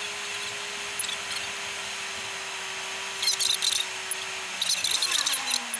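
A steady whine from a moving vehicle that falls in pitch near the end as it slows, over a noise bed, with two short bursts of high crackling rustle.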